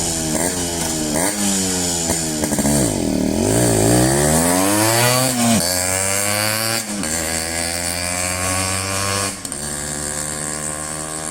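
Yamaha RX 100's single-cylinder two-stroke engine under way. The revs dip and climb about three seconds in, then rise twice with a sudden drop in pitch after each as it shifts up. It then settles to a steady run, a little quieter near the end.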